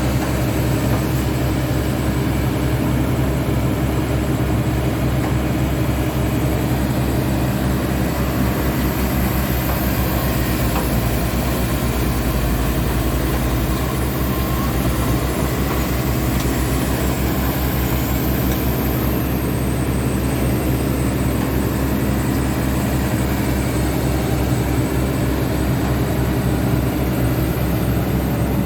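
Kobelco SK200 excavator's diesel engine running steadily, with a low, even throb.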